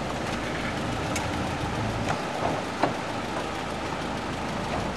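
SUV engine idling steadily, with two short sharp clicks, the louder one a little under three seconds in.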